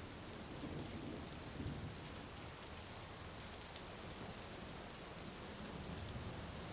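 Heavy rain falling steadily, with a low rumble of thunder in the first couple of seconds.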